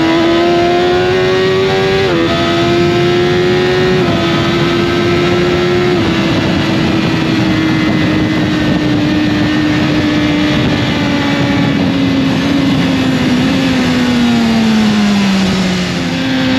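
Motorcycle engine under load, pulling up through the gears with three quick upshifts in the first six seconds, then holding speed and winding down as it slows, with a downshift near the end. Rushing wind noise runs under the engine note.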